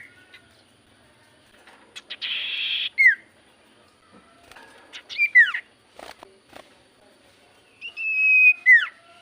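Common iora (cipoh) calling: a harsh rasping chatter, then quick falling whistles, and near the end a long level whistle that drops into a falling note.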